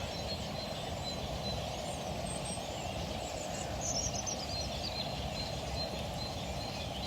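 Steady outdoor background noise by a river, with faint bird chirps a couple of seconds in.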